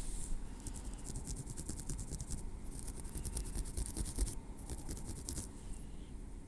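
Tweezer tips scratching and picking through hair against the scalp, close to the microphone. Rapid fine crackly scratches come in three bursts of a second or two each.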